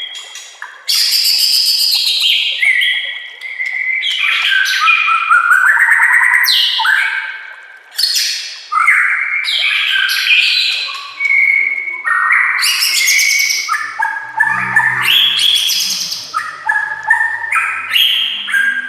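White-rumped shama (murai batu) singing a loud, varied song, phrase after phrase with barely a break: clear whistled notes alternate with fast buzzy trills and chatter.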